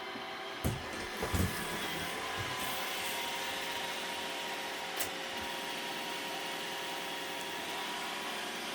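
Robot vacuum cleaner running with a steady whir, with a few light knocks about a second in and again about five seconds in.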